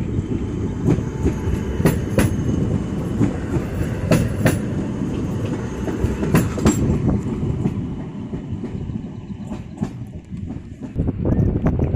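Electric multiple unit passing close by and pulling away: a steady rumble with sharp clicks, often in pairs, as its wheels cross rail joints. It grows quieter about eight seconds in as the train moves off.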